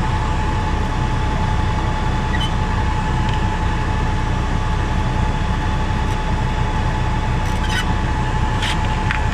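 Semi truck's diesel engine idling, a steady low rumble heard inside the cab, with a steady high whine over it and a few light clicks near the end.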